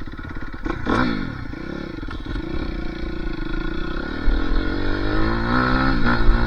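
Dirt bike engine revving: the pitch dips and picks up again about a second in, then climbs and grows louder as it pulls away.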